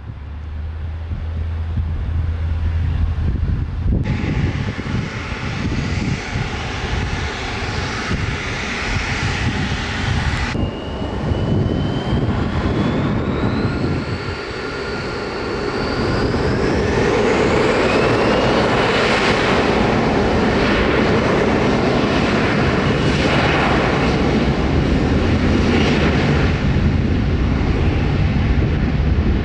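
Jet airliner engines: a whine climbs in pitch as the engines spool up, then they settle into a loud, steady roar at high power for the second half. The sound changes abruptly twice in the first third.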